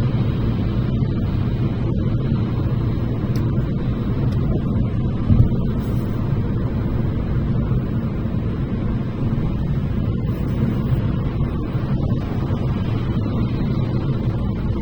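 Steady road and engine rumble inside a car cruising on a motorway, with one brief thump about five seconds in.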